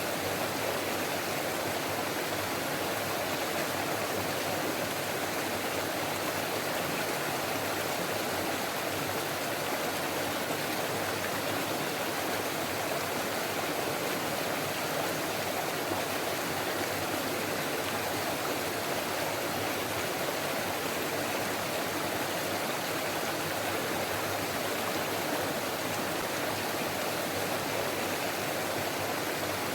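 Forest stream flowing steadily over rocks, a continuous rushing and babbling of water.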